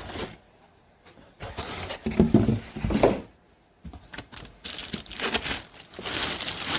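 Cardboard box and plastic packing being handled: a few dull knocks in the first half, then steady rustling and crinkling with small clicks.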